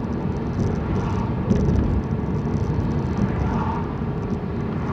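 Car driving over a bumpy, potholed road: a steady low rumble of tyres and engine, with a brief louder jolt about a second and a half in.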